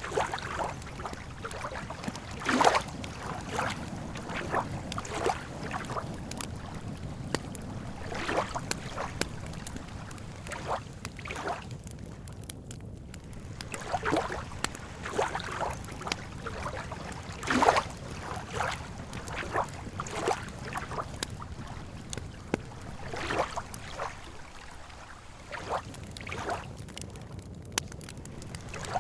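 Campfire crackling with irregular pops, mixed with small waves lapping at the water's edge, over a steady low rumble.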